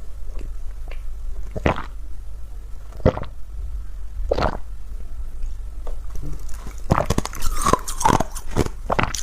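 A person biting and chewing ice close to the microphone. There are single crisp crunches every second or so, then rapid, continuous crunching in the last couple of seconds.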